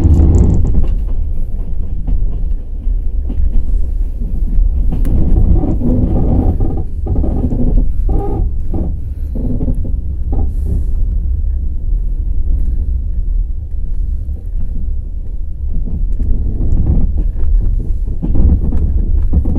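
Wheels of a passenger train clacking over rail joints above a continuous low rumble from the moving carriages, with the clacks bunched in irregular runs.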